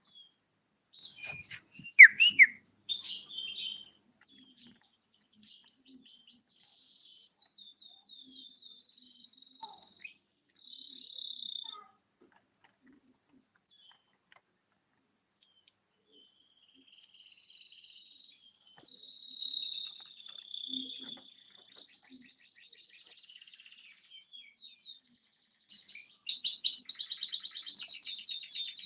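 Bar-winged prinia (ciblek) singing in bursts of sharp high chirps and short trilled phrases with pauses between. Near the end it breaks into a fast, continuous trill.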